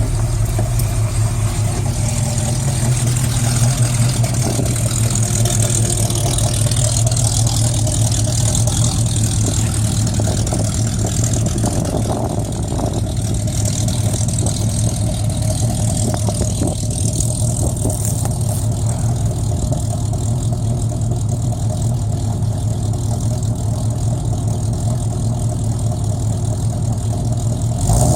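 AMC 360 V8 idling steadily through a 2.5-inch exhaust with a Jones Max Flow muffler, warming up after a cold start. The exhaust note is still pretty loud.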